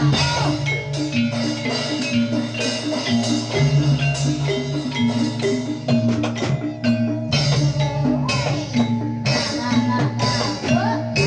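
Live Jathilan accompaniment music in gamelan style: struck metallophones play a repeating melody over drums and a sustained low note.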